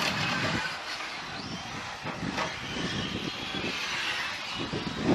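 Radio-controlled cars running on a track, their motors whining and rising and falling in pitch as they speed up and slow down, over a steady haze of noise.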